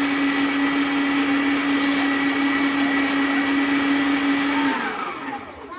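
Kenwood electric meat grinder running steadily with a motor hum and whine while grinding meat. Near the end it is switched off and spins down with a falling pitch.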